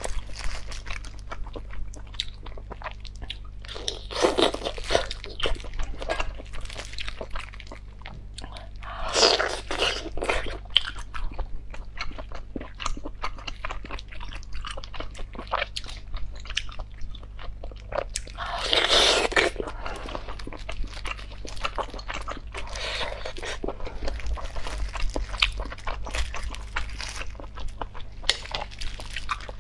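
Close-miked mouth sounds of biting and chewing braised abalone, with many small clicks and a few louder bursts.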